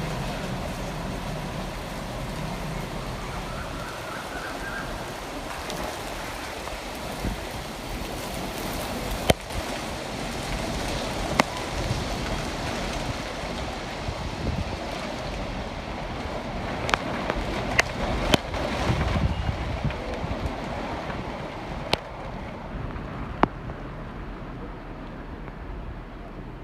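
Rain falling steadily, a continuous hiss with occasional sharp ticks of drops striking something close by; the hiss softens near the end.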